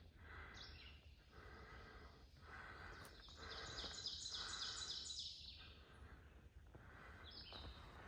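Woodland birds singing faintly, with a rapid run of high repeated chirps from about three to five and a half seconds in.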